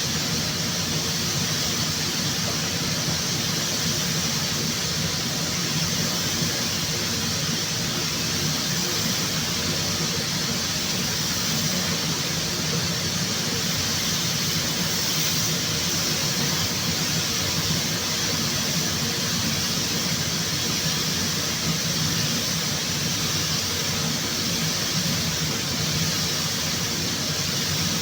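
Steady rushing hiss of air with a low hum underneath, unbroken throughout, typical of paint-shop air equipment such as a spray booth's fans or a spray gun running.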